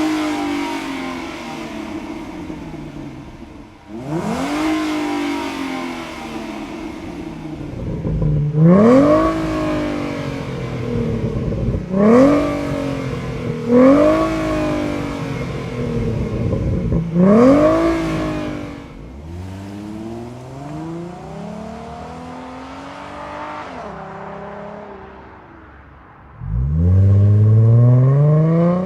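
A 2011–2014 Ford Mustang's 3.7L V6 is revved through its exhaust several times from idle. Each rev climbs quickly and then falls back. Near the end it holds a longer, louder climb in revs.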